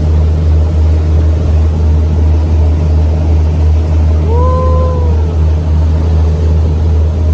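Sightseeing boat's engine running at a steady, loud low drone. About four seconds in, a short tone rises and then holds for about a second.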